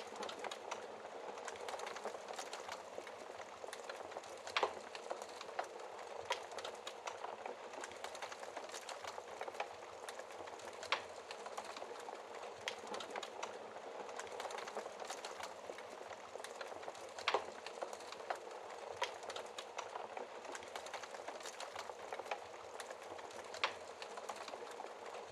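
Log fire crackling, with sharp pops every few seconds over a steady hiss of rain.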